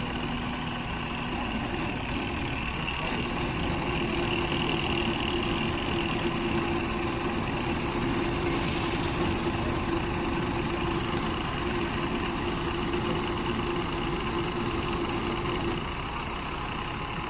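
Engine running steadily, with a steady whine that joins in a couple of seconds in and stops shortly before the end.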